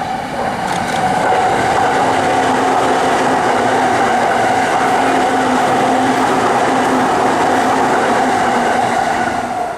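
JR East E233-series electric train running past at close range: a loud, steady rush of wheels on rails with a constant mid-pitched hum.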